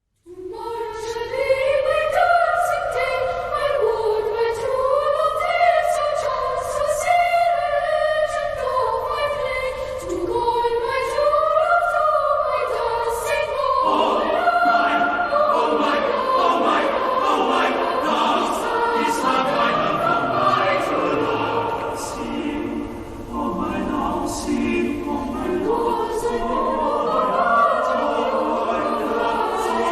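Choir singing: voices carry a melody from the start, and fuller, lower parts join about fourteen seconds in.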